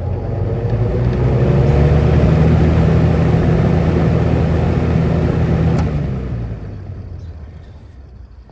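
Evenflow 20-inch box fan running on high: a steady rush of air over a low motor hum that builds up over the first two seconds. About six seconds in there is a switch click, and the fan winds down and fades, a short spin-down from a fan that needs cleaning and servicing.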